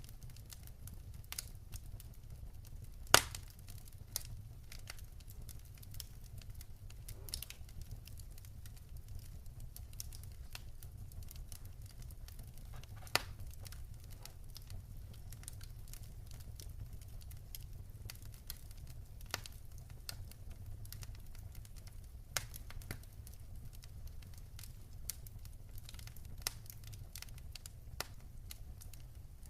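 Wood fire crackling in a fireplace: irregular sharp pops and snaps, the loudest about three seconds in, over a steady low rumble.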